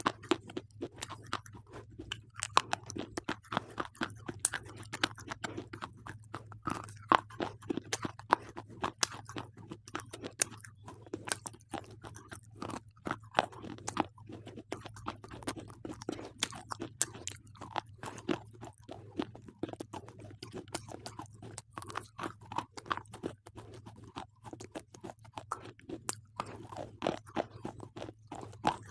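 Slate pencils being bitten and chewed close up: a continuous run of sharp, brittle crunches and crackles, with a low steady hum underneath.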